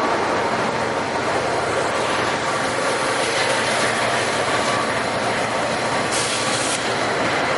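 NJ Transit commuter train passing, its wheels running on the rails in a steady, even noise.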